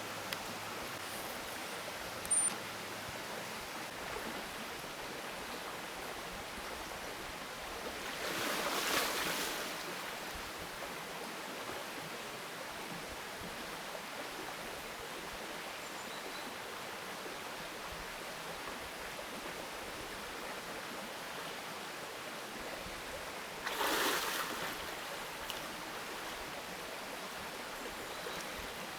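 Steady rush of flowing water, like a mountain stream, with two louder swells of noise about 8 and 24 seconds in.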